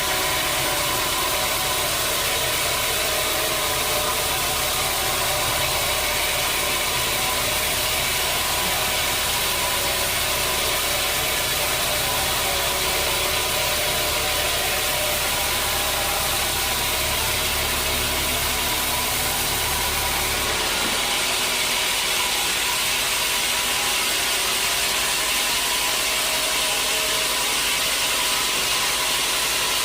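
Sawmill saw running steadily with a mechanical hum and hiss, as a large acacia log is sawn; a deep low rumble drops away about twenty seconds in while the higher running noise carries on.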